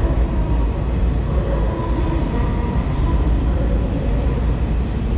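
Hanshin 9300 series electric train running along the platform, a steady deep rumble of wheels and running gear with a faint steady whine above it.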